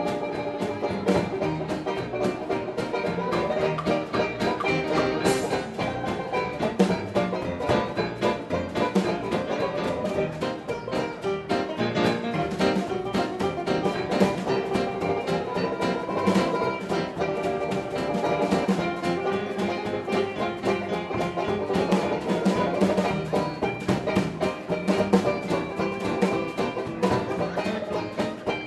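A 1920s-style hot jazz dance orchestra playing an up-tempo instrumental, with banjo, brass, string bass and drums.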